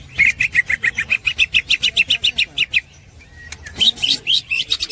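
Green leafbird (cucak hijau) giving its rapid 'ngekek' chatter: a fast run of repeated sharp notes, about eight a second, breaking off for about a second, then starting again higher before settling back down.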